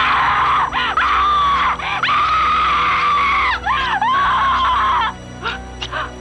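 A person screaming, loud and high-pitched, in one long drawn-out scream with brief wavering breaks. It cuts off about five seconds in. Dramatic film score plays underneath.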